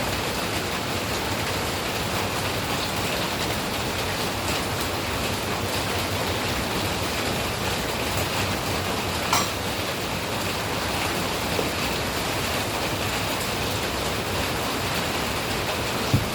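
Steady rain falling, an even hiss. A brief sharp tick about halfway through and a short low thump near the end.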